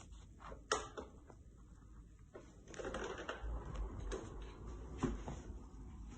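Faint scattered taps and rustling, with a sharper knock just under a second in and again about five seconds in, and a longer stretch of rustling or shuffling around three to four seconds in.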